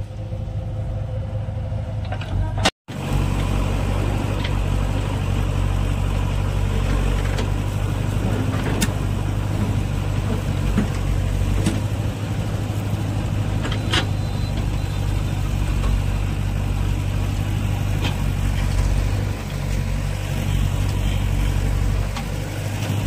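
Heavy diesel engine running steadily at a low, even speed, with a few sharp knocks or clanks over it. It breaks off for an instant about three seconds in and comes back louder.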